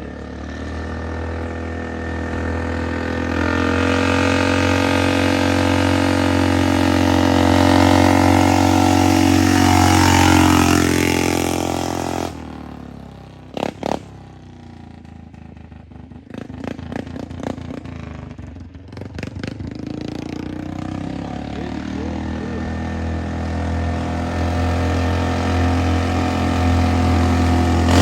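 Straight-piped four-wheeler engine running with a steady, loud exhaust note. About twelve seconds in the note drops away suddenly, and a few sharp knocks and some clatter follow. The engine note then builds up again and grows louder towards the end.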